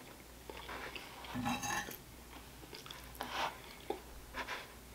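Chewing a mouthful of food, with a metal spoon clinking and scraping on a plate, in a few short soft bursts over a faint steady low hum.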